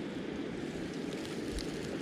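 Mountain river rushing steadily, an even low rush with no separate events.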